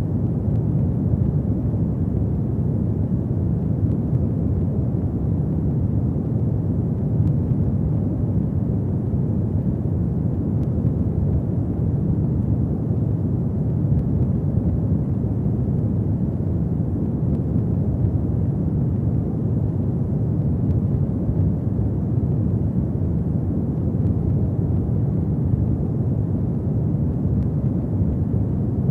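Fireplace fire burning with a steady low rumble, with a few faint crackles now and then.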